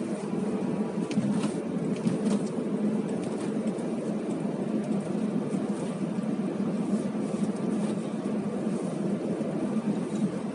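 A car driving, heard from inside the cabin: a steady rumble of engine and tyre noise, with a few faint clicks.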